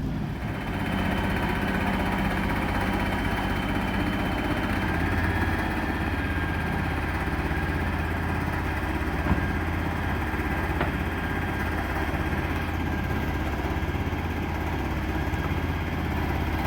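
Engine of a 1978 Chevy C60 bucket truck idling steadily, with a faint steady high whine over the engine. A single click about nine seconds in.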